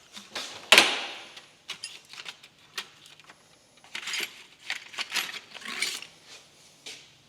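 Metal tools and small parts clinking and clattering by hand: a sharp knock about a second in, then a series of irregular rattles and clicks.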